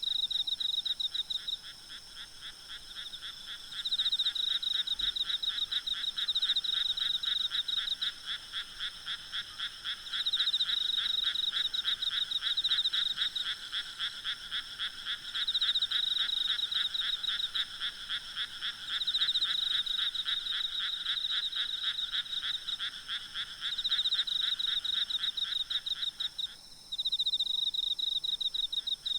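A chorus of frogs croaking in long runs of rapid pulses, each bout starting loud and easing off, with a new bout every few seconds. Insects keep up a steady high trill behind it.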